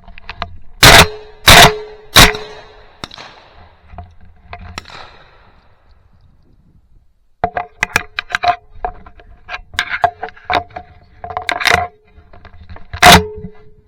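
Three shotgun blasts in quick succession, little more than half a second apart, then a run of lighter clicks and knocks and a fourth shotgun blast near the end.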